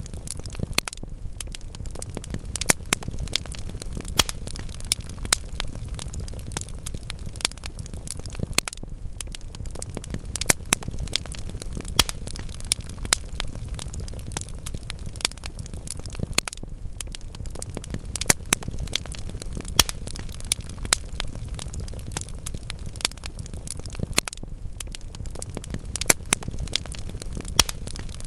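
Wood fire of burning logs crackling, with frequent irregular sharp pops over a steady low rumble of flame.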